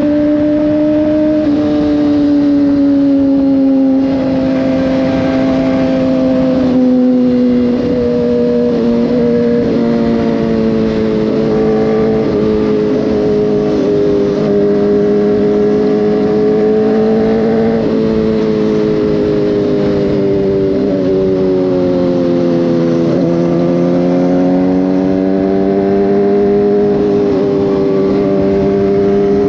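Motorcycle engine running at road speed, its pitch slowly easing down as it slows, then rising again near the end as it picks up speed.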